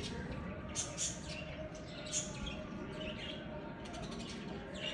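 Small birds chirping: short, high, downward-sweeping chirps repeated several times, over a steady background hiss.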